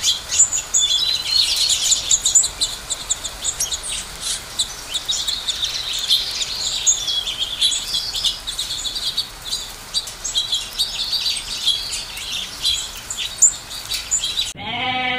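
A flock of house finches chirping and warbling, many quick calls overlapping. Near the end the chirping cuts off abruptly and a sheep starts bleating.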